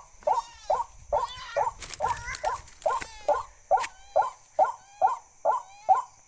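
A bird calling over and over, short pitched cries about two a second in an even rhythm.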